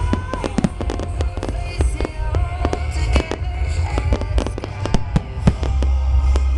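Fireworks display: a rapid, irregular string of sharp bangs and crackles, with music playing over them.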